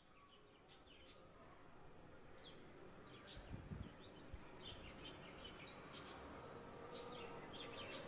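Faint, short, high-pitched cheeps from nestling birds in a nest, scattered and irregular over a low background hiss, with a brief low rumble about halfway through.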